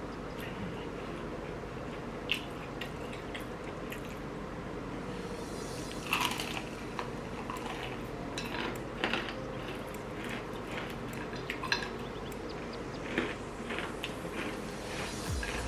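Close-up eating of fried chicken wings: scattered short crunches, clicks and wet mouth sounds from chewing and handling, over a steady low hum.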